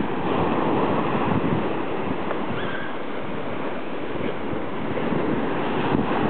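Ocean surf: waves washing and rushing steadily, with wind buffeting the microphone.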